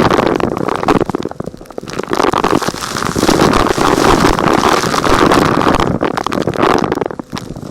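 Vacuum cleaner sucking up small rocks and grit, a dense crackling rattle over the rush of air. It drops away briefly twice, about a second and a half in and near the end.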